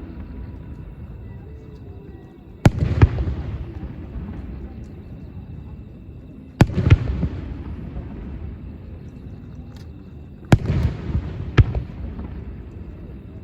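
Aerial firework shells bursting at a distance, three times about four seconds apart. Each burst is a sharp bang with a second bang close behind, followed by a rolling low rumble of echo that dies away.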